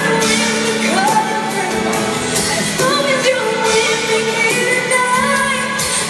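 Live pop ballad: a woman's voice singing long, gliding notes over instrumental accompaniment.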